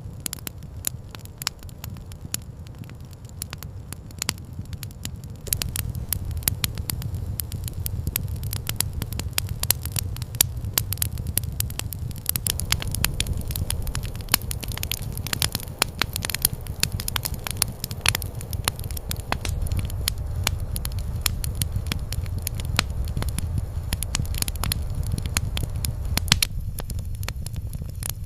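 Campfire crackling, with frequent sharp pops and snaps over a low, steady rumble. The pops come thicker about twelve seconds in.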